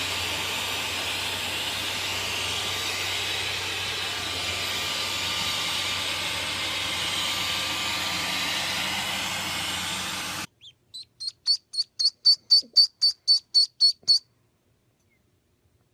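A steady hiss for about ten seconds, then a sudden cut to a small bird giving a quick run of high, repeated chirps, about four a second and growing louder, which stops abruptly.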